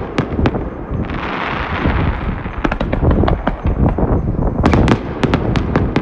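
Aerial firework shells bursting in a finale barrage by Kikuya Obata Fireworks: deep booms under many sharp cracks, a hissing crackle about a second in, then a dense run of rapid cracks.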